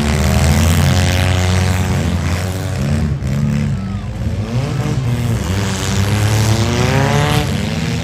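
Several compact demolition-derby cars' engines revving, their pitch rising and falling again and again as the cars drive and push in the dirt arena.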